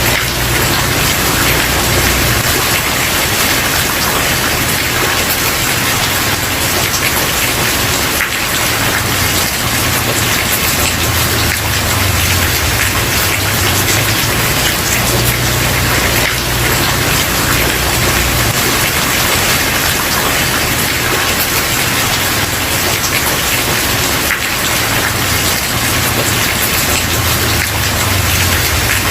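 Steady heavy rain falling on a wooden porch, a dense, even patter with no let-up. A low rumble swells and fades several times underneath.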